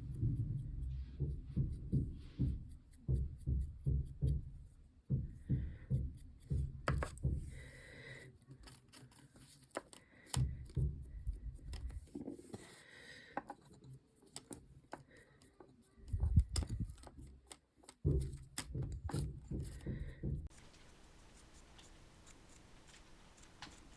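Hands at a craft table handling small pieces and tools: irregular light clicks and taps over low bumps and rubbing, with the loudest knock about two-thirds of the way through.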